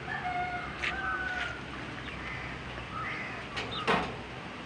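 Caged farm birds chirping, a scatter of short thin calls over a steady background, with a sharp click about four seconds in.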